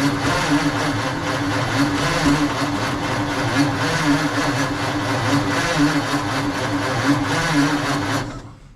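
1948 Ford F5 truck engine cranking over on its starter motor with a steady, even rhythm, turning briskly but not firing, until the cranking stops near the end. The engine gets no catch even with fuel poured into the carburettor after nearly 30 years dormant.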